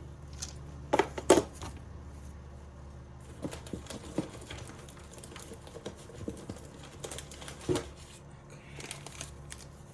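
Handling noise from unpacking a box: scattered sharp clicks and knocks of small items and packaging being picked up and set down, the loudest two close together about a second in, over a steady low hum.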